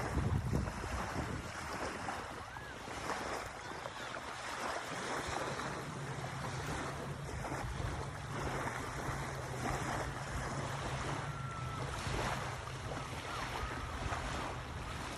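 Sea waves washing on a beach, with wind buffeting the microphone. A steady low hum, like a distant motor, joins about five seconds in.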